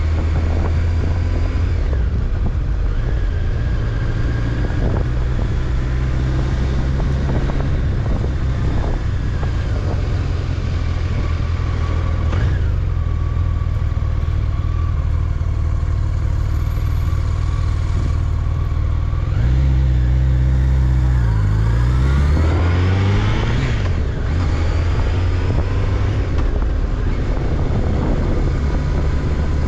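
Honda CBR1100XX Blackbird's inline-four engine running under way, with wind and road noise. About twenty seconds in, the engine note drops and then rises steeply over a couple of seconds as the bike slows and accelerates again.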